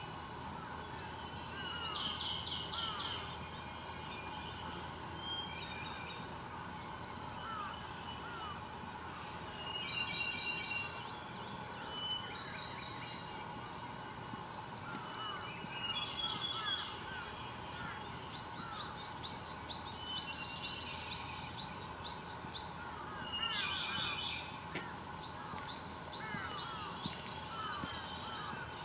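Several wild songbirds singing and calling over one another, with chirps and short phrases throughout. In the second half a fast run of repeated high notes comes twice and is the loudest part.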